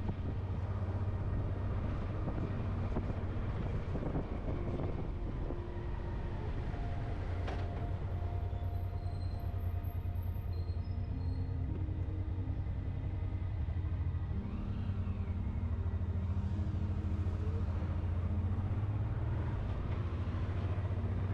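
Motorcycle engine running steadily while riding at low town speed, with a constant low hum and road noise, its pitch shifting a little a few times.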